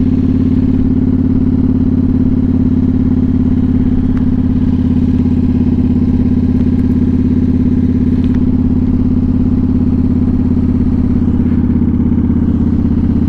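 Motorcycle engine running at steady revs while riding along, heard from the rider's own bike. The pitch holds level throughout with no revving or gear changes.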